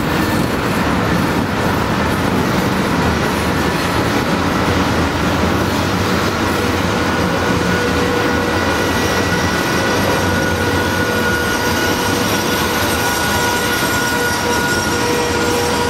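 Loaded tank cars of a freight train rolling past on a curve: a steady rumble of wheels on rail, with a high steady squeal from the wheels that grows stronger from about halfway through.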